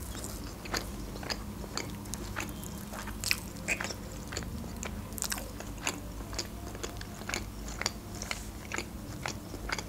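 A person chewing a piece of fried pancake: irregular wet mouth clicks and smacks all the way through, over a low steady hum.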